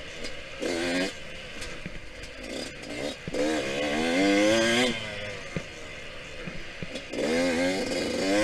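Yamaha YZ125X 125cc two-stroke single-cylinder engine revving hard in three bursts as the throttle is opened and closed, its pitch wavering up and down. Between the bursts the engine drops back, with a few light knocks and clatter.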